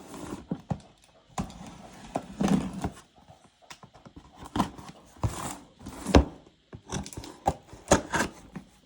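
A mini coffee maker's cardboard box being opened and handled: irregular knocks, scrapes and rustles of cardboard and packaging.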